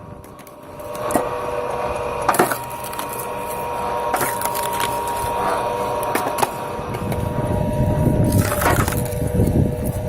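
Gearbox-driven firewood splitter running with a steady mechanical hum while logs crack and split. There are sharp wood cracks every couple of seconds, and splintering grows heavier and denser near the end.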